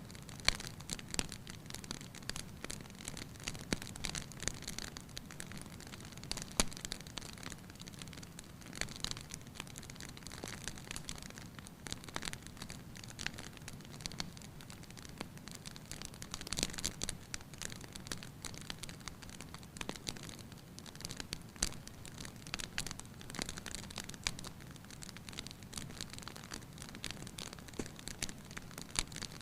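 Wood fire crackling in a fireplace: irregular snaps and pops, a few louder ones, over a steady soft hiss.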